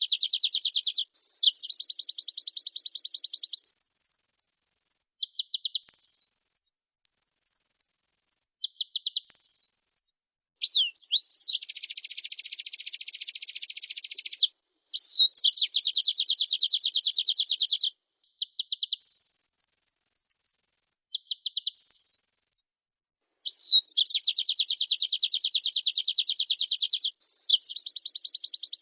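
White-eye (pleci) singing a long, fast chattering song. It runs as rapid trilled phrases, each about one to three seconds long, separated by short gaps, and some phrases are pitched very high.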